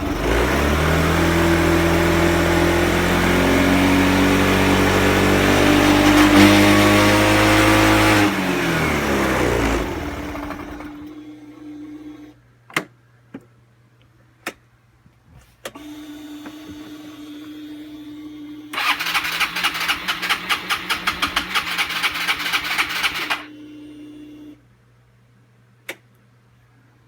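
Yamaha Cygnus X scooter's single-cylinder engine running, its revs rising and falling, then dying away about ten seconds in. After a few clicks, the starter cranks rapidly for about four seconds, and the engine does not catch.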